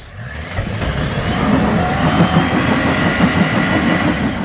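Off-road vehicle's engine revved hard under heavy throttle as it climbs a rock ledge. It builds over the first second, holds loud, and eases off near the end.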